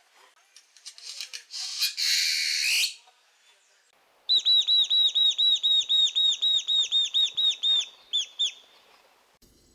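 Great-tailed grackle calling: a harsh, hissing rasp, then a rapid run of high whistled notes at about five a second, ending with two separate notes.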